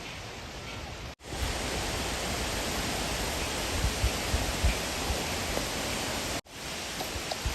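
Steady rushing of wind, with low gusts buffeting the microphone; the sound breaks off abruptly twice and resumes at a different level.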